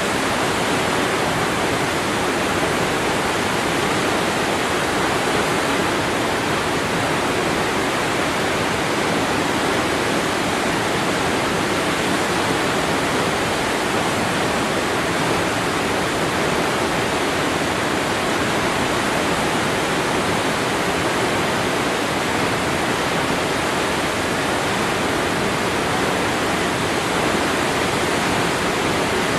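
Waterfall: falling water crashing steadily with a constant rushing hiss, no change throughout.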